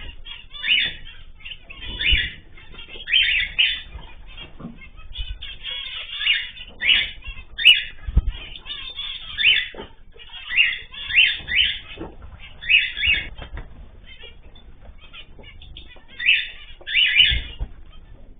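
Pet cage birds making about fifteen short, harsh bursts of calling and wing flutter in irregular clusters.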